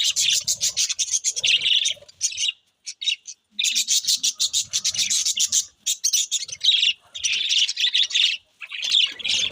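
Small birds chirping rapidly and continuously in dense bouts of chatter, with brief pauses a few times.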